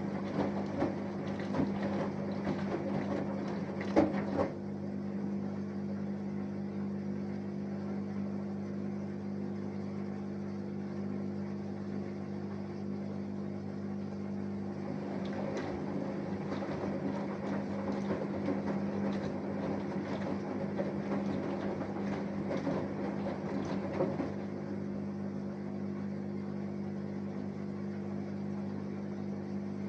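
Samsung Eco Bubble front-loading washing machine on a wash cycle: the drum turns in spells with laundry and water sloshing, for the first four seconds or so and again from about 15 to 24 seconds, with pauses between, over a steady low hum. There is a single knock about four seconds in.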